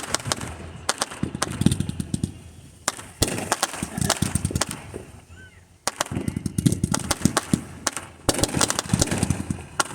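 Fireworks going off in rapid strings of sharp pops and crackles, with two short lulls around the middle.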